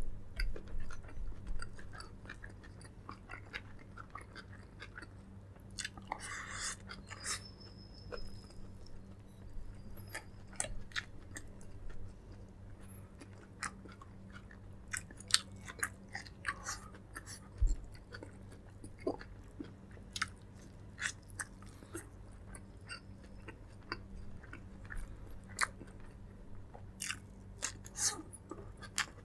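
Close-miked chewing and biting of food, with irregular sharp clicks and short crunches from the mouth. A steady low hum sits underneath.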